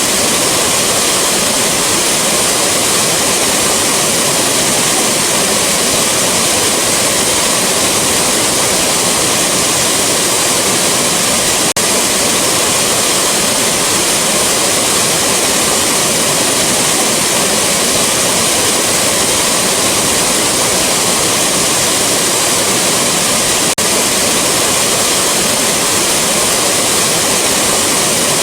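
Rushing waterfall: a steady, loud wash of falling water, even and unbroken across low and high pitches.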